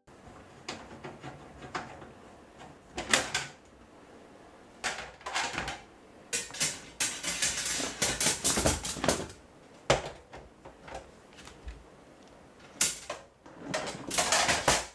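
Household objects being handled during cleaning: an irregular series of knocks, clatter and rustling scrapes, with a longer busy stretch in the middle and another near the end.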